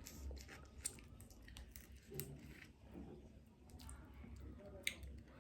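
Faint eating sounds of crab: soft chewing with scattered small clicks and crackles of crab shell being handled, the sharpest click about five seconds in.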